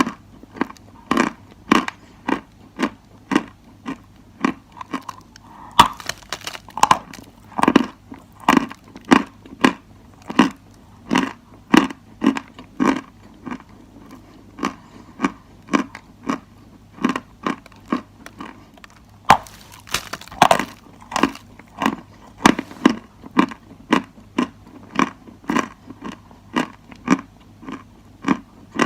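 Dry chalk being bitten and chewed close to the microphone: a steady run of sharp, dry crunches, about two a second.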